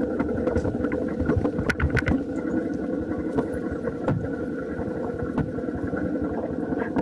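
Small motorcycle engine running steadily, with a held hum and scattered sharp clicks over it.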